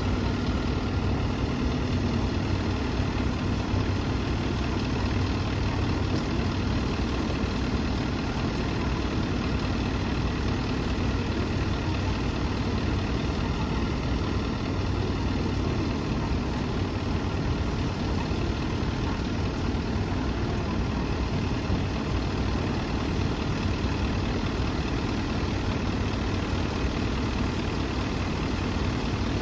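City bus engine idling steadily, with an even low hum and no revving or gear changes.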